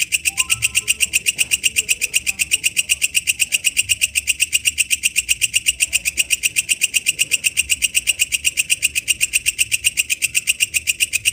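Walang kecek katydid calling: a steady, rapid train of sharp, shrill chirping pulses, about seven a second, with faint bird calls in the background.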